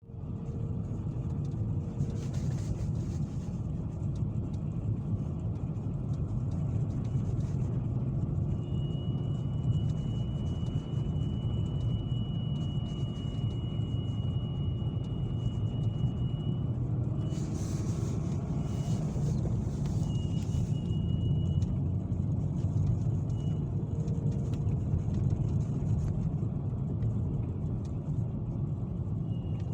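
BMW E60's N52B25 inline-six engine running, with a thin high whistle that starts about nine seconds in, holds steadily for several seconds, then comes and goes in short spells. The owner puts the whistle down to a failing crankcase ventilation valve or an air leak somewhere in that system.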